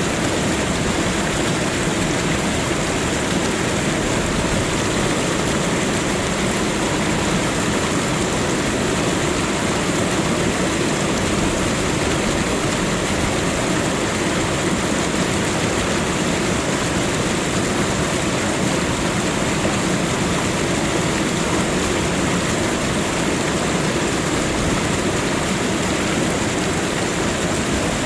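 Fast-flowing water rushing steadily, as in a flood torrent: a constant noise that neither breaks nor changes.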